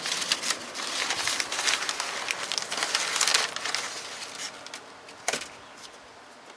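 Cardboard box and plastic packaging rustling and crinkling as a new starter motor is unpacked, thinning out after about three and a half seconds, with one sharp click about five seconds in.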